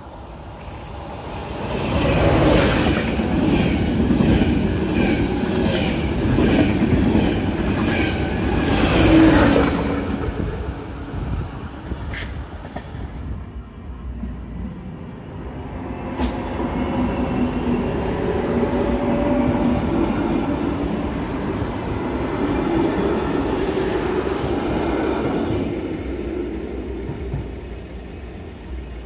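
Train passing, its wheels clacking in an even rhythm over the rail joints for several seconds, then a longer, quieter rumble of rolling stock a few seconds later.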